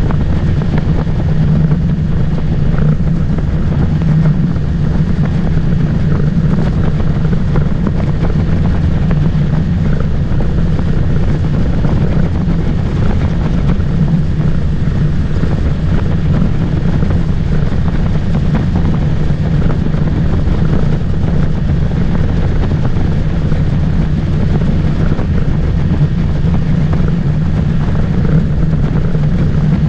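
Motorboat engine running steadily at cruising speed, a constant low drone with the rush of the hull and air over it.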